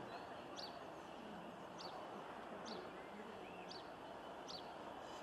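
Faint outdoor background noise with a small bird repeating a short high chirp about once a second.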